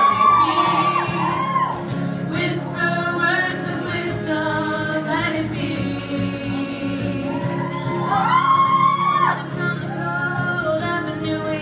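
Music with women's voices singing sustained, wordless phrases, with shouts and whoops from the audience.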